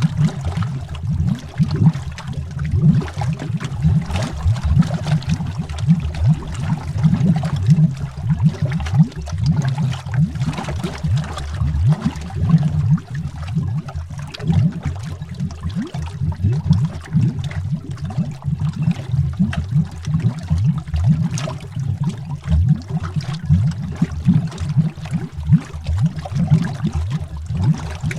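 Underwater bubbling: a dense, unbroken stream of low, irregular bubble pops and gurgles.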